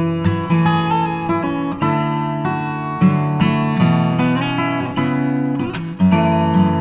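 Background music: an acoustic guitar playing plucked and strummed chords in a steady rhythm.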